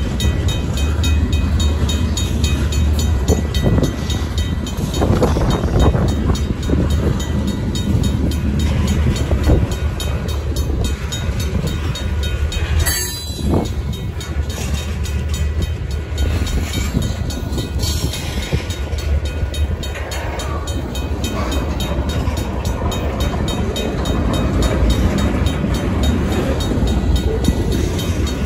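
Freight cars of a long train rolling steadily over the crossing, with a continuous deep rumble of wheels on rails. A short, sharp metallic sound comes about halfway through. A mechanical crossing bell rings steadily behind the rumble.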